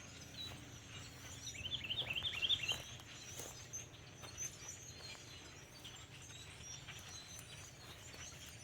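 A songbird's quick run of about ten short, high chirps about two seconds in, over faint outdoor background noise.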